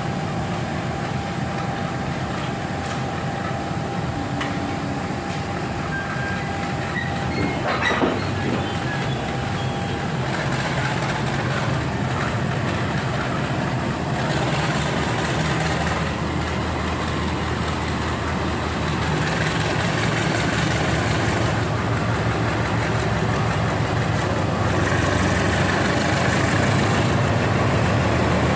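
Diesel locomotive of a parcel train shunting, its engine a steady low drone that grows louder toward the end, with a single sharp knock about eight seconds in.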